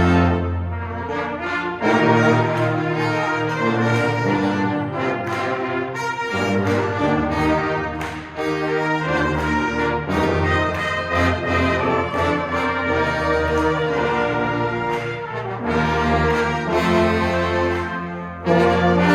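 Indoor marching-band winds, led by brass, playing slow sustained chords over a strong bass line. The chords change every second or two, with a short break near the end before a loud re-entry.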